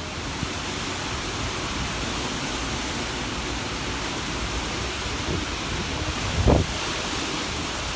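Hurricane wind blowing steadily as an even rushing noise, buffeting the microphone. A low thump of wind on the microphone stands out about six and a half seconds in.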